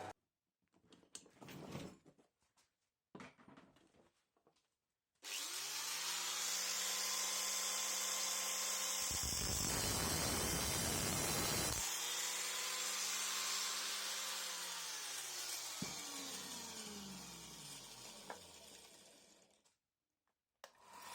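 A stationary power tool's motor switches on and runs at speed, cutting into material for about three seconds. It is then switched off and winds down with a slowly falling hum. A few faint handling knocks come before it starts.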